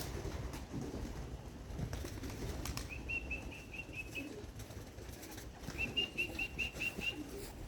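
Pigeons cooing and flapping their wings around the loft, with two quick runs of about seven short, high chirps each, from around three seconds in and again near six seconds.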